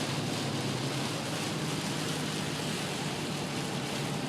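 A car driving in heavy rain, heard from inside the cabin: a steady hiss of wet road and rain over a low, even engine hum.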